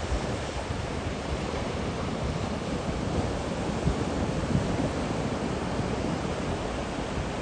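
Ocean surf from typhoon swell washing steadily onto the beach, with wind buffeting the microphone.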